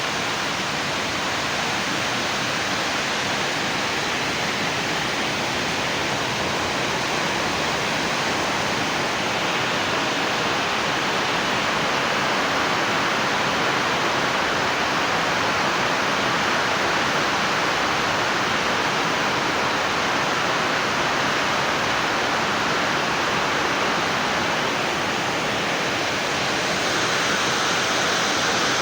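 A steady rushing hiss, even and unbroken, strong enough to cover any faint licking sounds.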